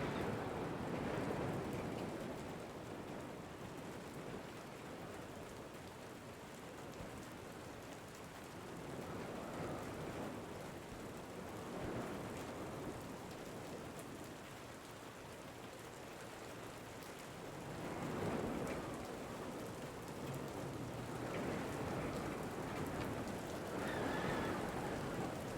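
Steady rain falling, with wind swelling and easing every few seconds.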